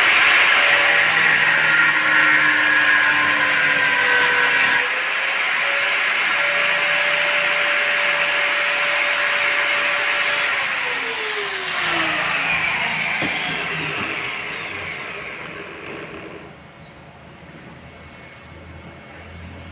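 Electric power tool running at speed, a steady whine under a loud hiss. The hiss eases about five seconds in, then the tool is switched off about ten seconds in and its whine falls away as the motor spins down.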